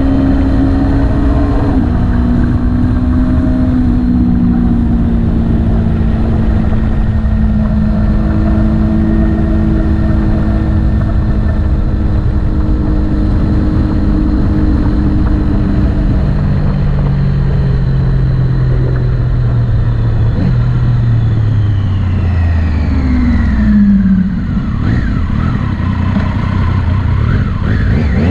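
Motorcycle engine running under way, holding steady revs, then slowing with its pitch falling over several seconds. It picks up again briefly near the end.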